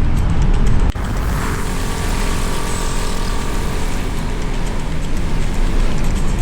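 Motorcycle riding at speed: wind rushing over the microphone and the engine running steadily, with an abrupt break about a second in.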